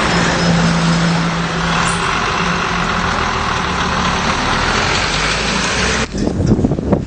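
A heavy vehicle's engine running steadily, with a low hum in the first couple of seconds. About six seconds in it cuts off abruptly and gives way to gusty, uneven noise.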